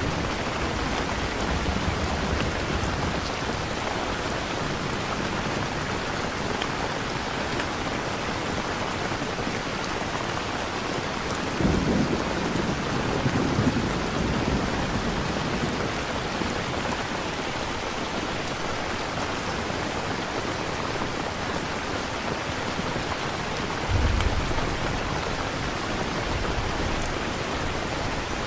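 Steady rainfall with rolling thunder: a long low rumble about twelve seconds in and a shorter one near the end.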